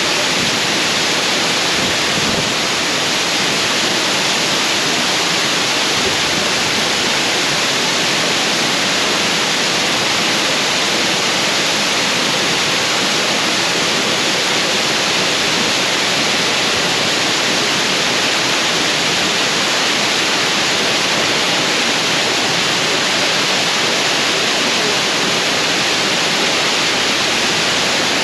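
Oboadaka Falls waterfall: water pouring down in a steady, loud rush of white noise.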